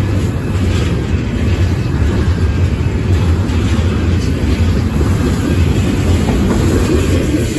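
Double-stack intermodal well cars rolling past close by: a steady, loud low rumble of steel wheels on rail, with a few faint clicks.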